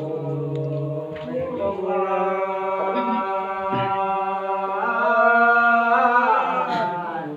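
Unaccompanied ritual chant: men's voices singing long held notes, a second voice joining about one and a half seconds in, swelling louder near the end.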